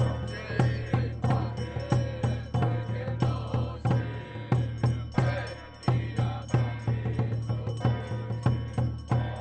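Taoist temple ritual music: a drum struck at about two beats a second, with chanting and melody over it.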